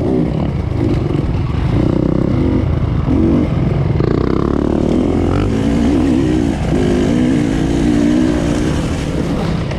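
Enduro dirt bike engine revving hard off-road, its pitch rising and falling repeatedly as the throttle is worked.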